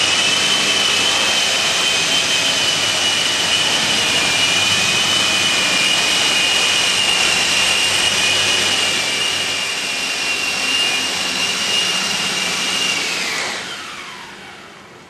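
Electric RC model helicopter, an EC-135 scale model, running with a steady high motor whine over rotor noise. Near the end the whine falls in pitch and fades as the motor spools down.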